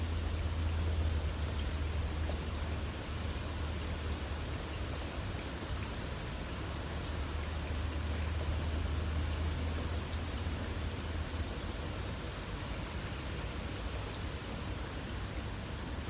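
Light rain falling steadily with insects trilling, a thin steady high tone above the rain. A low rumble underneath is stronger for the first two-thirds and then eases.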